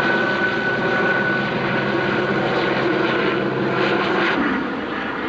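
An engine running steadily with a low, even hum that drops away about four seconds in, over a haze of outdoor noise.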